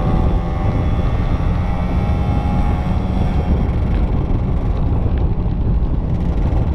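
Two-stroke motorcycle engines running under way, with a steady heavy rumble of wind on the action camera's microphone.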